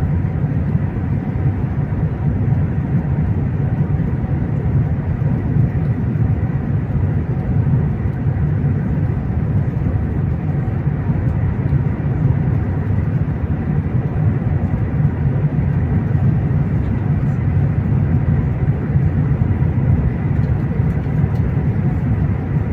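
Steady low rumble of a high-speed train running at speed, heard from inside the passenger cabin, with a faint steady whine above it.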